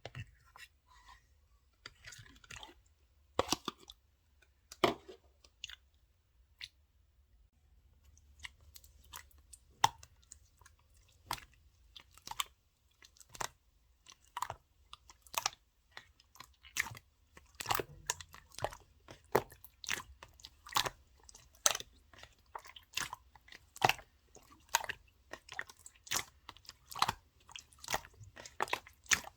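Clear slime being played with, giving sharp sticky pops and crackles. There are a few scattered ones at first, then a steady run of about two a second from about eight seconds in.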